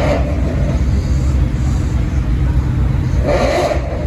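Steady low rumble of car engines idling nearby, with two short louder noises, one at the start and one about three and a half seconds in.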